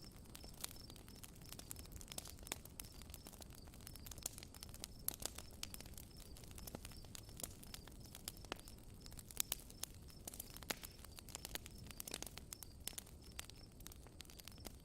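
Campfire crackling: irregular sharp pops and snaps of burning wood over a low, steady rumble. A faint high chirp repeats steadily several times a second.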